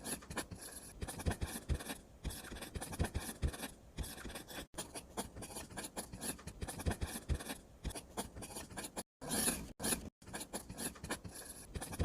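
Irregular scratching and rasping with many small clicks, broken by a couple of brief gaps near the end.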